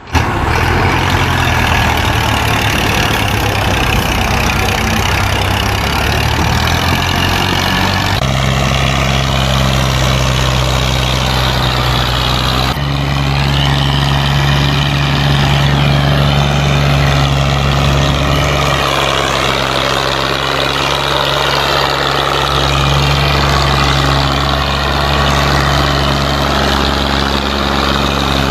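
Massey Ferguson 240 tractor's three-cylinder diesel engine running steadily. Its pitch jumps abruptly to a new steady note about eight seconds in and again about thirteen seconds in.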